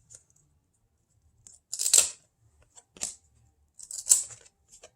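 A foil trading-card pack wrapper being torn open and crinkled: three short rustling tears, the loudest about two seconds in.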